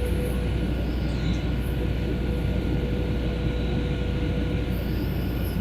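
Steady cabin noise of a Boeing 737 in cruise-like flight: the engines and rushing air make an even drone with a faint steady whine running through it.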